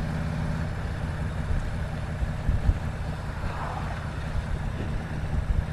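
Harley-Davidson motorcycle engine running steadily at cruising speed, a low even hum, with wind rushing past.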